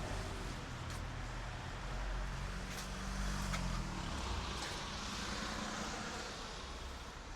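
A car passing on a road, its engine hum dropping in pitch about three and a half seconds in, over a steady tyre hiss.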